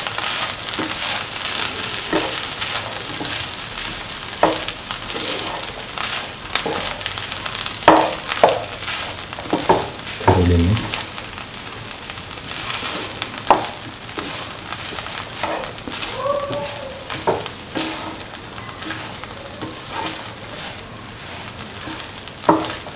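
Cooked mung beans sautéing in a hot oiled pan with a steady sizzle while they are stirred, the stirring utensil scraping and knocking against the pan every second or two.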